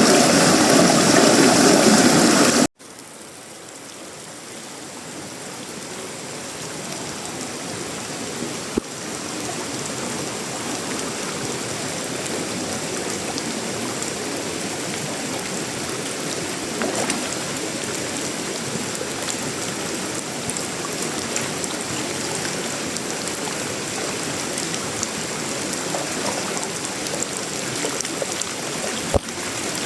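Steady tropical rain falling on sheet metal, wood and leaves. It cuts out abruptly about three seconds in and comes back much quieter, swelling over the next several seconds before settling into a steady rush with a few faint drip taps.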